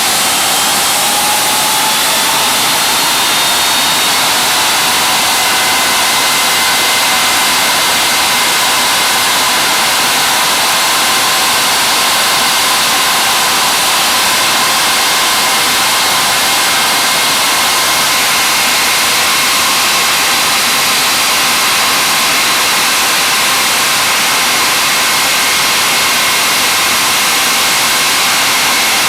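Ilyushin Il-86's Kuznetsov NK-86 turbofan engines running at steady power during a ground run-up. It is a loud, even roar with a whine in it that rises a little in pitch over the first few seconds, then holds steady.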